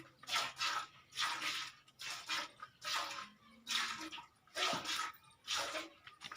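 A cow being milked by hand: streams of milk squirting into a vessel in an even rhythm of hissing squirts, about one to two a second.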